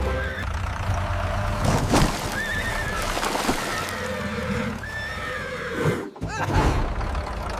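Horse whinnies, several short calls one after another, as cartoon sound effects, with a sharp knock about two seconds in and a low rumble underneath.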